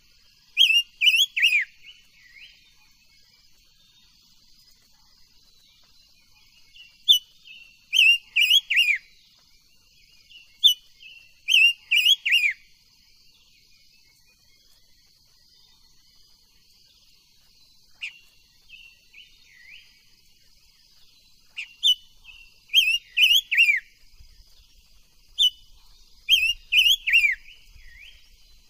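Silver-eared mesia singing: five phrases of quick, falling whistled notes, with pauses of several seconds between them, over a faint steady high-pitched drone.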